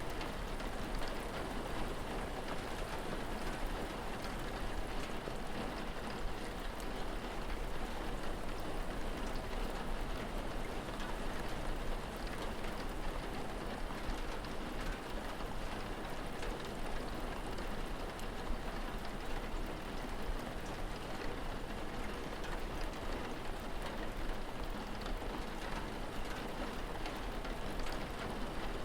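Steady rain falling, an even hiss of drops that doesn't change, over a constant low rumble.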